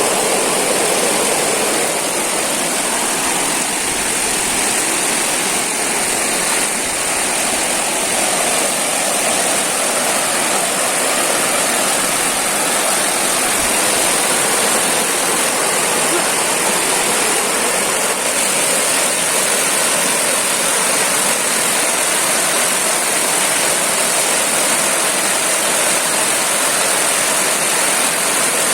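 Water rushing steadily at a waterfall and river, with an even, unbroken roar.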